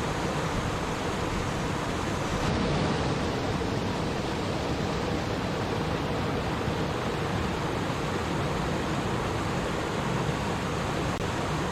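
Stream water flowing and babbling in a steady rush.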